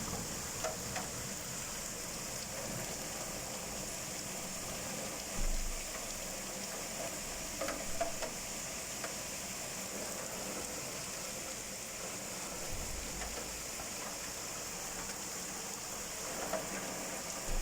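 Heavy rain pouring down steadily as an even hiss, with scattered faint drop ticks. A brief low rumble comes about five seconds in and another near the middle.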